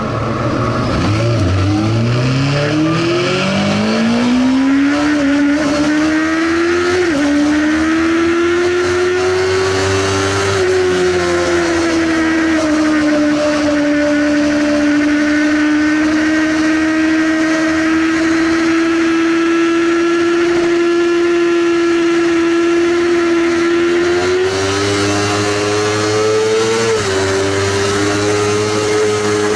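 Sportbike engine revving up, its pitch climbing over the first few seconds, then held at high revs. The pitch steps suddenly a few times, about a third of the way in and near the end, like gear changes.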